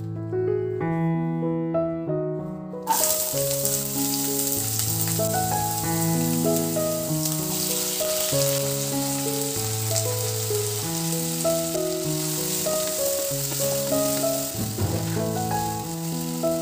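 Chopped onions and tomatoes frying in hot oil in a nonstick kadai: a steady sizzle that starts suddenly about three seconds in. Background music with a melody plays throughout.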